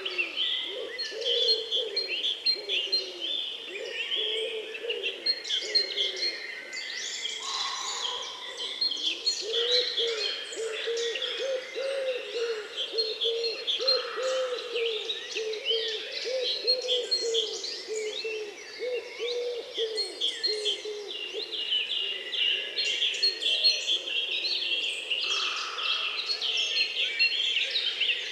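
Several birds singing at once: dense high chirps and trills throughout, over long runs of a low call repeated rapidly.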